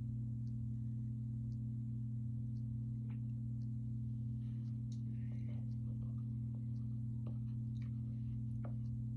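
A steady low hum, with faint scattered clicks and a few short crackles over it.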